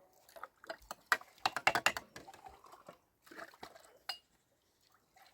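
Hard objects clattering and clinking: a quick run of sharp clicks for about a second, starting about a second in, then a few scattered clicks and one sharp knock near the end.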